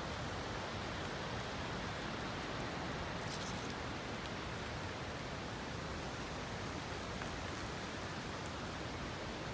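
Steady rain falling on trees, grass and wet paths: an even, unbroken hiss.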